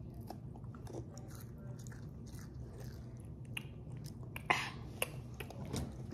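Close chewing of a MrBeast crunch chocolate bar: a run of faint, crisp crackles, with two sharper crunches about four and a half and five seconds in.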